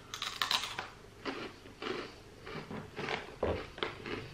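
Crunchy mini churro crisps being chewed close to the microphone: a string of short, irregular crunches.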